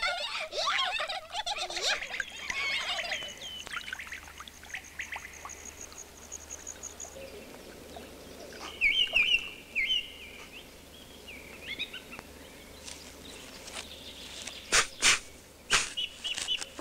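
Bird-like chirping and twittering: a busy chatter at first, then a fast high trill for a few seconds, then sharp chirps about nine seconds in. A few sharp clicks come near the end.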